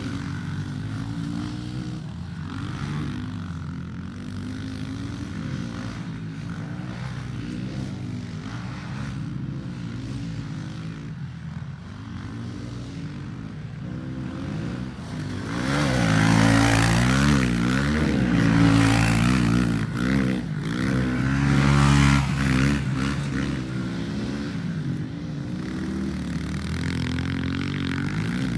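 Pit bike engines revving up and down as they ride the dirt track. They are loudest for several seconds about halfway through, as a bike comes close with quick rises and falls in pitch.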